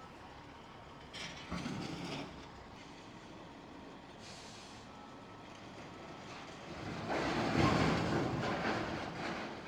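Heavy demolition equipment working rubble: a short clatter with a knock about a second in, then a louder, longer grinding rush that swells and fades over about two and a half seconds near the end, over a steady machine background.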